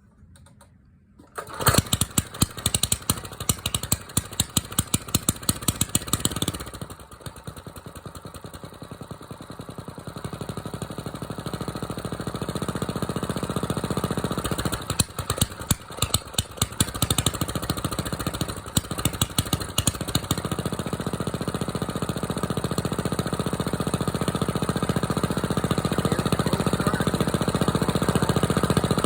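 Small diesel engine starting from silence with loud, uneven firing about a second and a half in. It drops back briefly, then settles into steady running that grows gradually louder.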